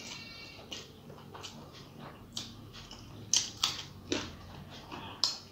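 Close-up mouth sounds of eating rice mixed with fried greens by hand: chewing with a string of short wet clicks and lip smacks, the loudest pair about three and a half seconds in.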